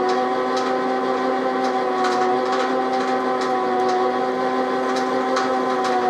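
Metal-turning lathe running steadily with an even motor and gearbox hum, and light irregular ticks over it, as a turning cut is taken on a part.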